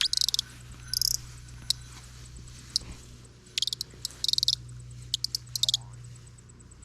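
Audubon bird caller, a wooden peg twisted in a birch block, giving rapid high squeaky chirps in about five short bursts a second or so apart, used to answer a bird.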